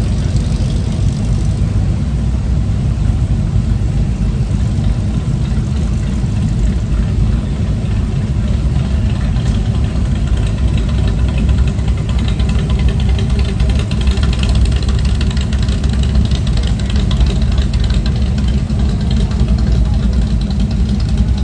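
Vehicle engine idling: a steady low rumble, with a faint fast ticking joining in about halfway through.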